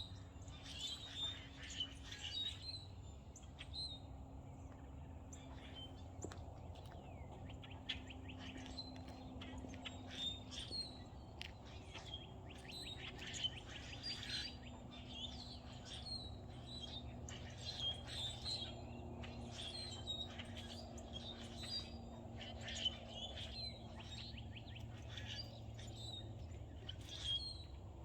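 Several songbirds chirping and singing, many short overlapping calls in quick succession, over a faint steady low hum.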